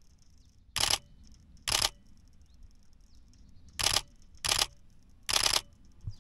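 DSLR camera shutter firing in five short bursts of rapid continuous shooting, each lasting a fraction of a second, the last a little longer.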